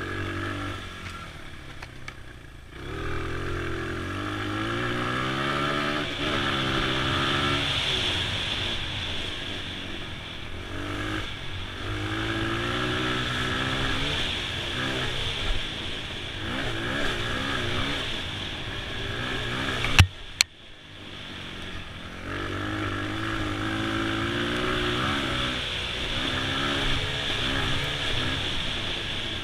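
2002 Honda XR100's single-cylinder four-stroke engine running on a trail ride, its pitch repeatedly climbing and dropping as the throttle is worked through the gears. A sharp knock about twenty seconds in, with the engine sound briefly dropping away.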